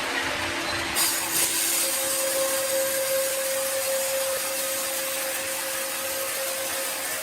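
A power saw cutting wood: a steady, hissing cutting noise that turns brighter abruptly about a second in, with a steady whine running under it from about two seconds in.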